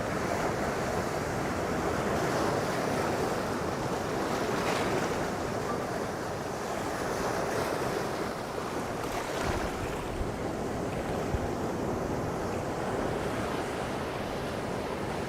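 Caribbean surf washing onto the shore in a steady rush, with wind buffeting the microphone.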